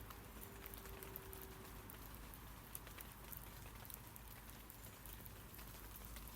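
Rain falling on tree leaves: a faint, steady patter with many scattered individual drop ticks.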